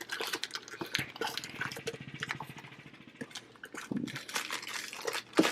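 Light clicks and rustles of a small box of piston rings being handled and opened, with a low rasping buzz in the middle and a sharper click near the end.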